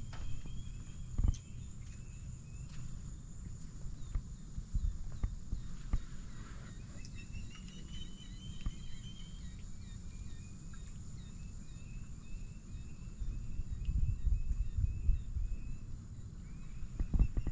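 Outdoor ambience: small birds chirping in repeated short, high notes over a steady low rumble.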